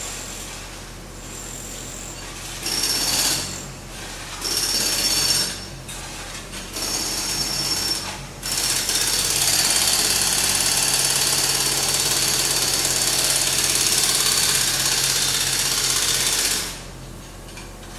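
Pneumatic hammer hammering in three short bursts, then running continuously for about eight seconds before cutting off near the end.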